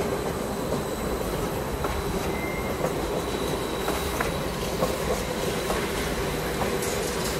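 Train running along the rails: a steady rumble with a held whining tone and scattered faint clicks.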